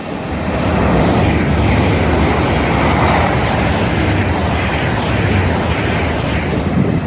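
A train passing through the station at speed: a loud, steady rush of wheel and air noise that builds over the first second and holds.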